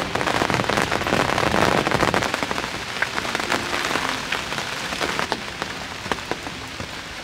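Heavy storm rain falling, a dense steady patter of drops with many sharper taps mixed in.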